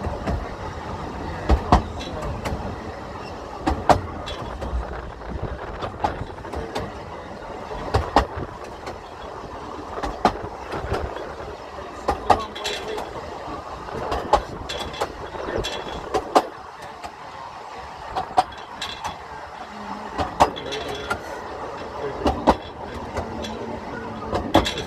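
Narrow-gauge railway coach rolling along the track, its wheels clanking over the rail joints about every two seconds, often as a quick double clank, over a steady rumble.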